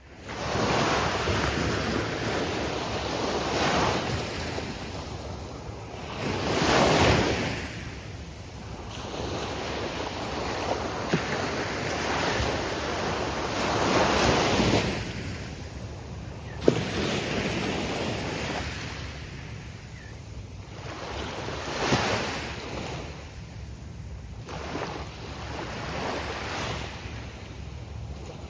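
Gulf of Mexico surf breaking on a sandy beach, each wave swelling and easing away every few seconds, with a single sharp click about two-thirds of the way in.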